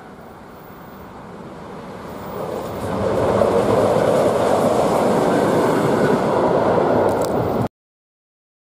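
Train running noise heard from inside a passenger carriage, swelling over about two seconds into a loud, steady rush as a locomotive-hauled train passes close on the next track, then cutting off suddenly near the end.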